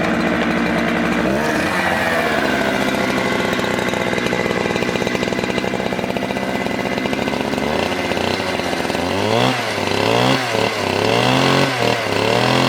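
Chainsaw engine running at high speed. It starts abruptly and rises in pitch within the first couple of seconds, then holds steady. From about eight seconds in its pitch repeatedly dips and races back up.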